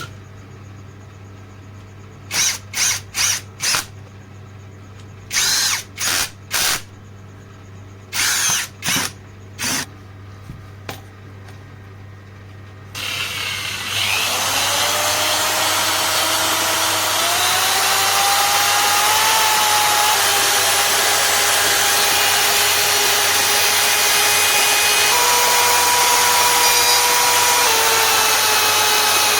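Electric power drill with a freshly replaced bearing, first blipped on and off in short bursts in three quick groups, then run continuously. Its whine climbs in pitch as it comes up to speed and holds steady, beginning to wind down at the very end.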